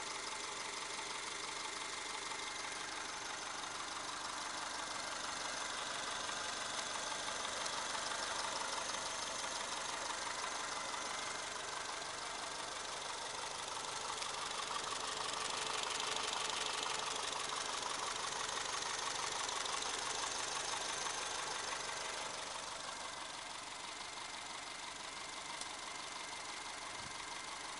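Subaru EJ201 2.0-litre flat-four engine running steadily, apparently at idle, at 242,000 km on Liqui Moly Molygen 5W-40 oil. It gets a little louder through the middle and eases slightly near the end.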